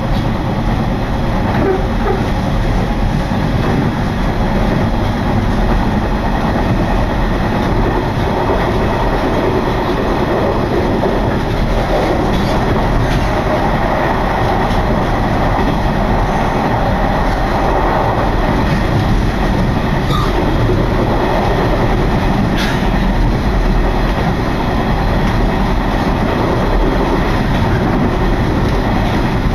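Electric train running at speed, heard from inside the carriage: a steady rumble of wheels on rails mixed with rushing wind, with a few faint clicks.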